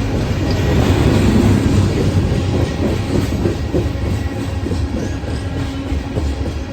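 CSX coal train's cars rolling past, steel wheels clacking over the rail joints over a steady low rumble. Loudest about a second in, easing slightly after.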